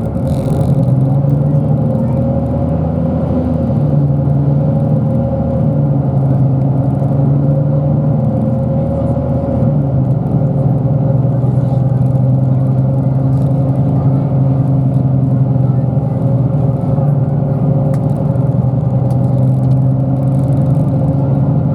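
Bus engine and drivetrain running steadily while the bus drives, heard from inside the passenger cabin as a constant drone.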